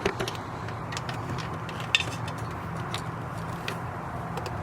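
Scattered light metal clicks and clinks of a socket wrench working a spark plug out of the engine, over a steady low hum.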